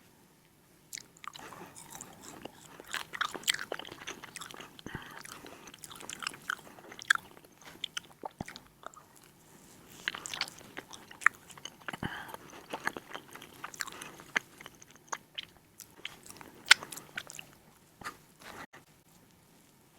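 Close-miked chewing and biting of crunchy food, a dense run of irregular crackles and crunches that starts about a second in.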